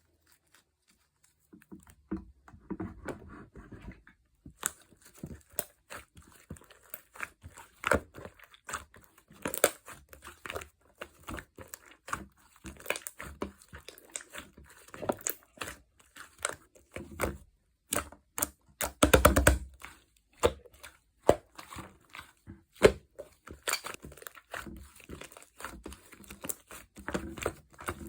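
Clear slime being pressed, stretched and poked by hand: irregular sticky clicks and small popping bubbles, with a dense run of pops about two-thirds of the way in.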